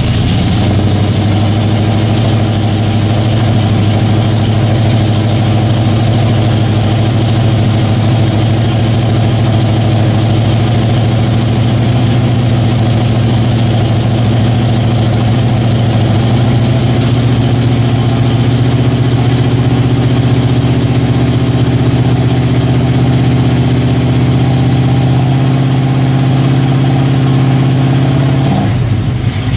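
1968 Ford Torino's engine idling steadily just after a cold start in single-digit temperatures, after sitting unstarted for a month. The sound cuts off abruptly right at the end.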